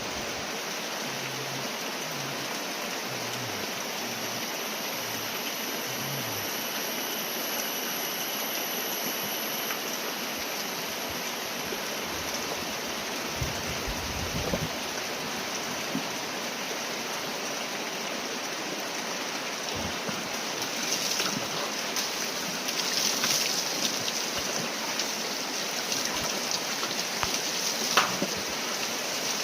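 Steady rushing noise of running water, with scattered crackles and light taps in the last third and one sharp click near the end.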